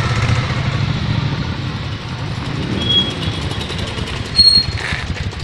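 Moto Guzzi V-twin motorcycle engine running at low revs as the bike rolls slowly past. A short, shrill high tone sounds about four and a half seconds in, with a fainter one just before.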